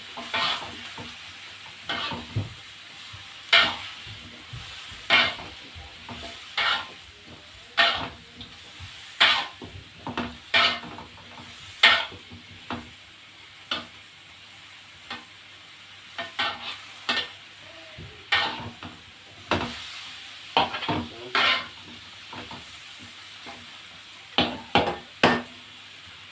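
Stir-frying in oil: a utensil scrapes and knocks against the pan roughly every second or so, over a steady sizzle.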